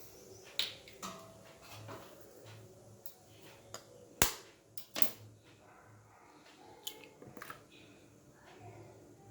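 Eggs being cracked open against a bowl: a series of sharp taps and cracks of shell, the loudest about four seconds in and another about a second later.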